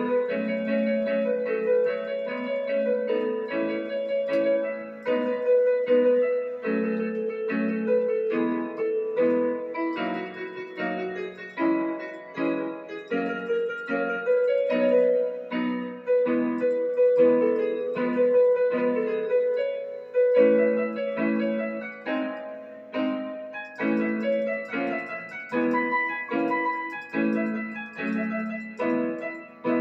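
Battery-powered electronic keyboard playing a piece: a repeating rhythmic accompaniment of chords under a higher melody, with no deep bass.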